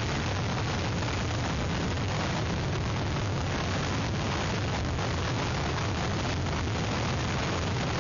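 Hurricane wind blowing hard on an outdoor webcam's microphone: a steady, dense rush with a heavy low rumble of wind buffeting.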